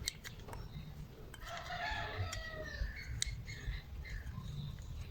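A rooster crowing once, a single long call of about a second and a half starting near the middle, with a few sharp clicks around it.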